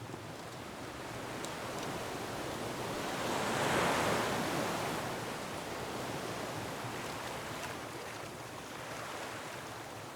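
Ocean waves surging against a rocky shore: a wash of surf that swells to a peak about four seconds in and then ebbs away. A few faint crackles of a wood fire sit underneath.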